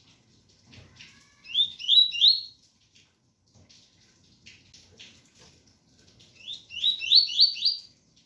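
Double-collared seedeater (coleiro) singing its 'tui-tui' song: two short phrases, each of three or four quick rising notes, about five seconds apart. Steady rain patters underneath.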